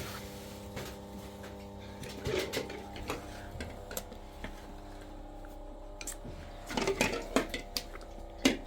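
Scattered knocks and clinks over a steady low hum, with two short bursts of clatter and a sharp knock near the end.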